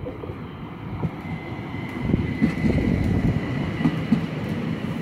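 ÖBB class 4024 Talent electric multiple unit rolling past on its arrival, growing louder about two seconds in. Its wheels clack over the rail joints, often in close pairs, above a steady high whine.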